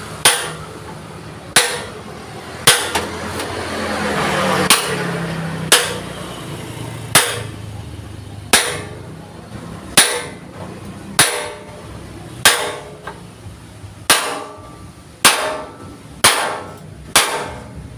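Hammer striking thick steel plate, about fourteen blows roughly a second or so apart, some with a short metallic ring: the plate being worked by hand.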